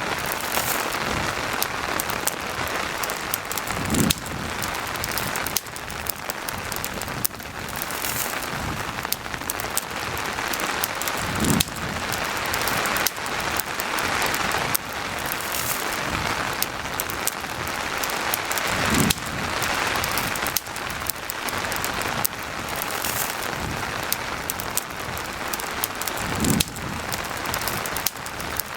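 Steady rain mixed with a campfire crackling, many small sharp pops over an even hiss, with a soft low thump about every seven or eight seconds.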